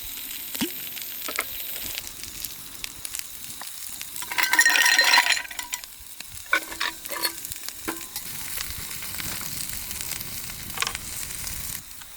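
Whisky highball being made in a glass: scattered clicks and clinks, a pour of about a second roughly four seconds in, and stirring. A steady hiss runs underneath throughout.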